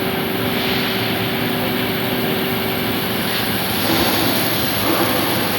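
MIG welding set at work: a steady broad hiss and hum, with two steady hum tones that stop about halfway through.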